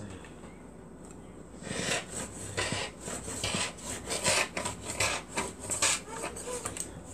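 Fabric and a paper pattern being worked by hand on a table: a run of short scraping, rubbing strokes, roughly two to three a second, beginning about two seconds in.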